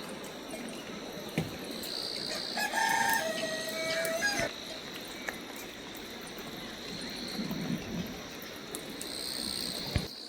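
A rooster crowing once, about three seconds in, a call of nearly two seconds ending in a longer held note, over a steady high-pitched insect drone.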